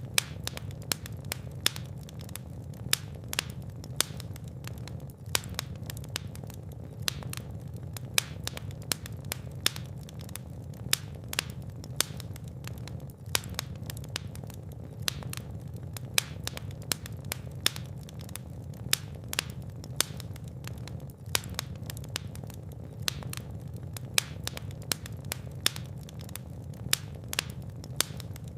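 Wood fire crackling and popping: frequent sharp irregular snaps, several a second, over a steady low rumble of the flames.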